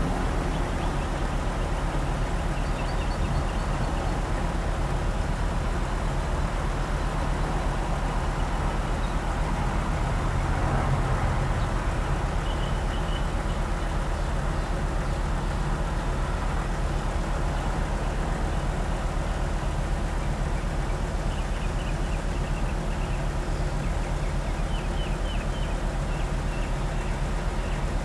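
Semi truck's diesel engine running steadily, briefly louder about eleven seconds in.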